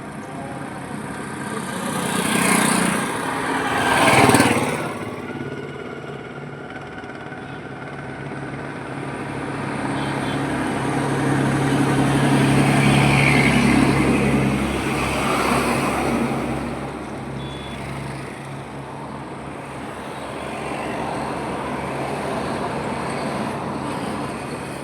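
Road traffic passing. Two vehicles go by quickly and loudly a few seconds in, then a slower pass with a steady low engine tone swells and fades through the middle.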